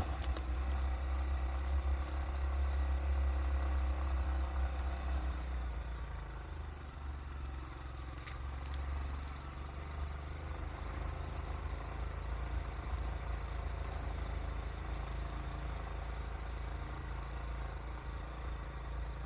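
Steady low engine hum of a running motor vehicle, easing a little after about six seconds.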